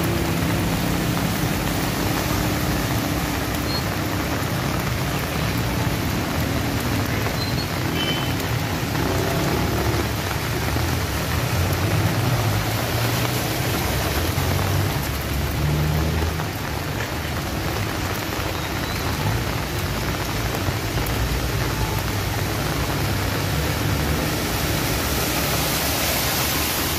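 Heavy rain pouring steadily, with a low rumble underneath at times.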